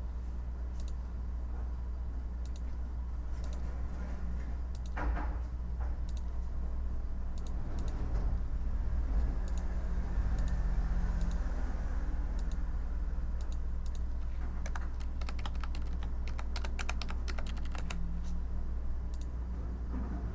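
Typing on a computer keyboard: scattered single keystrokes at first, then a fast run of typing for several seconds in the second half, over a steady low hum.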